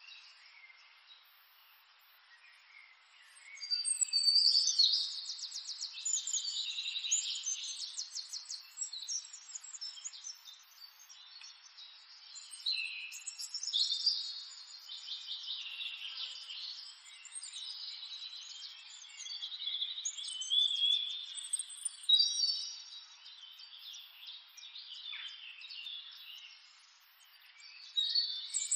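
Birds chirping and singing in bouts, with quick trills. The calls start about four seconds in and have no low end.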